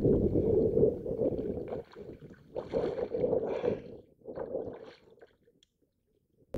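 Water splashing and sloshing around a kayak, coming in three or four surges, with a quiet spell near the end.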